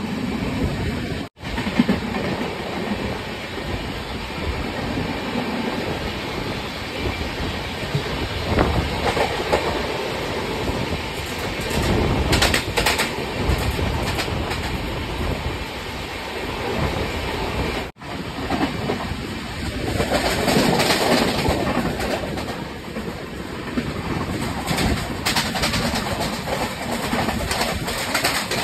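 Shramjeevi Express sleeper coaches running on the rails as the train pulls out, wheels clattering over the rail joints with rushing air noise. The sound cuts out for an instant twice, about a second in and again near the middle.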